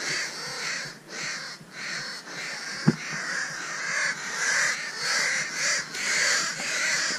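Birds calling in a steady run of rough, repeated calls, about two a second, with one sharp click about three seconds in.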